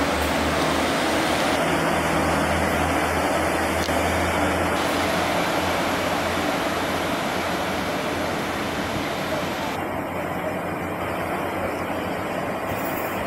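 Class 150 diesel multiple unit pulling away along the platform, its low engine hum and wheel noise running steadily and easing off a little as it moves away.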